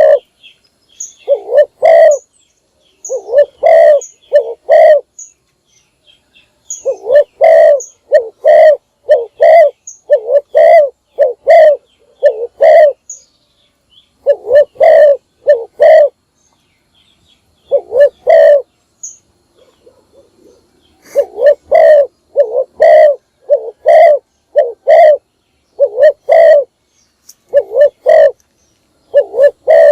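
Spotted dove cooing, short coos in runs of two to seven notes separated by brief pauses.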